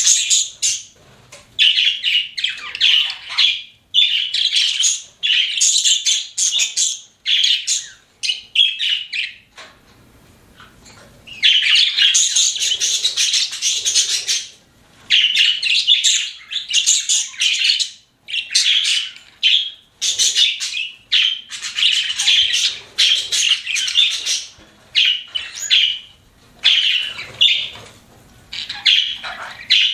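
Pet budgerigars chirping in bursts of a few seconds each, separated by short pauses, with a brief lull about ten seconds in.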